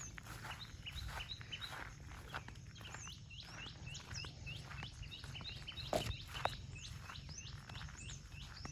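Small birds chirping in a forest: a rapid series of short, high notes, each sliding down in pitch. Scattered soft knocks run underneath, with a louder knock about six seconds in.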